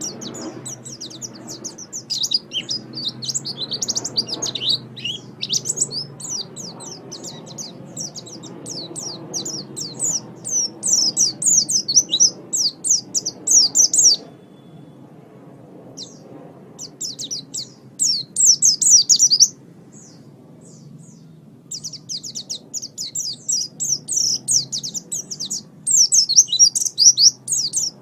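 Pleci (white-eye) singing: rapid, high twittering chirps in long run-on phrases, with two short pauses, over a faint low background hum.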